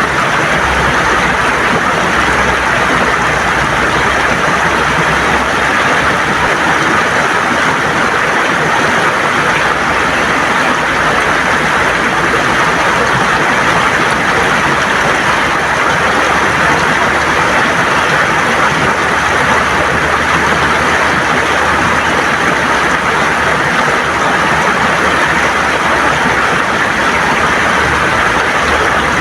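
River water running and gurgling over stones, a steady rushing noise throughout.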